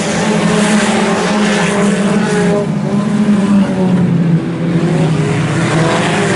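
A pack of IMCA Sport Compact race cars running at speed on the track, their four-cylinder engines steady with small rises and falls in pitch as they lift and get back on the throttle.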